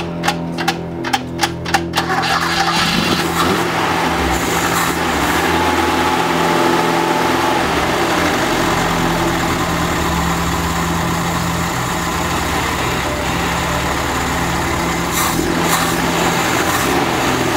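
Toyota 4K four-cylinder pushrod engine cranked on the starter, about three compression strokes a second, catching after about two seconds and then running steadily on a freshly fitted Weber 32/36 carburettor. The owner reckons the carburettor probably needs rejetting.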